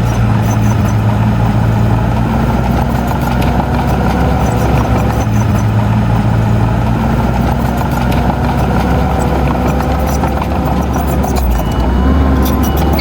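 Heavy diesel earthmoving machinery running steadily, its engine note shifting with load, with scattered clanks and rattles on top.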